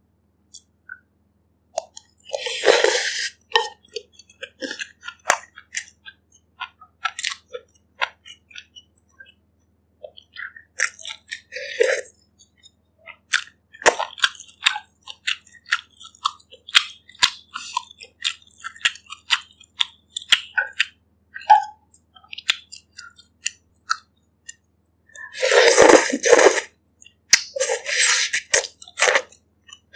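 Close-miked chewing of bak kut teh pork ribs, with many short clicks. There are two longer noisy bursts, one about three seconds in and a louder one near the end.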